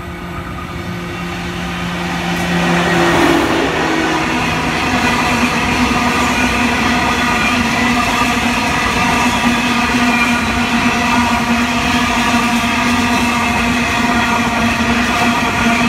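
An 82 class diesel-electric locomotive approaches and passes, growing louder over the first three seconds, its engine tone dropping in pitch as it goes by. The rest is the steady rolling noise of steel wheels on rail as a long rake of coal hopper wagons runs past.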